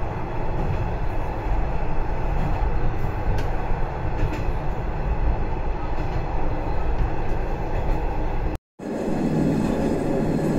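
Shigaraki Kohgen Railway diesel railcar running along the line, heard from inside the car: a steady low rumble of the engine and the wheels on the rails. It breaks off for an instant about eight and a half seconds in, then carries on with a steady low hum.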